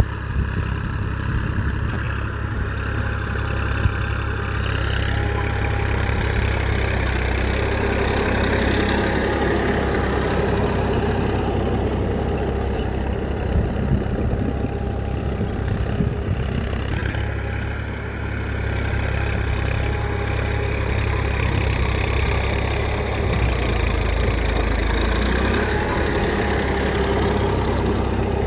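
A tractor-type engine running steadily at an even, idle-like pace.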